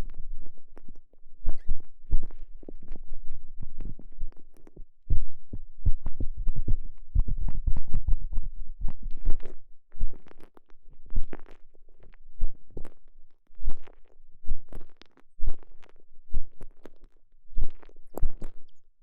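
A TENGA Egg's soft elastomer sleeve being squeezed and rubbed around a microphone pushed inside it. It makes deep, muffled, irregular squishing strokes, several a second.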